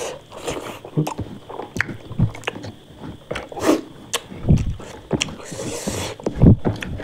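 A person eating close to the microphone: chewing with irregular wet mouth clicks.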